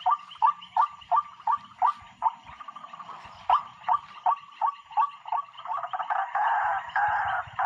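White-breasted waterhen calling: a series of short, evenly spaced calls, about three a second, that thicken into a denser, continuous chattering run about six seconds in.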